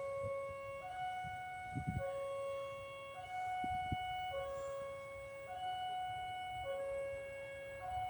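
Electronic railway level-crossing warning alarm sounding its two alternating tones, low then high, about one note a second, warning that a train is approaching. Low rumbling thumps from wind or traffic come and go underneath.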